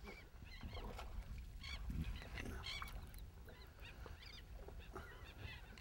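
Birds calling over the water: a string of short, high, repeated calls at irregular intervals, over a low rumble of wind and water.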